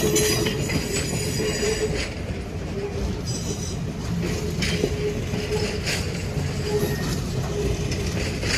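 Passenger cars of a train rolling past on a curve: a steady low rumble of wheels on rail, with a thin wheel squeal that comes and goes and a few sharp clicks.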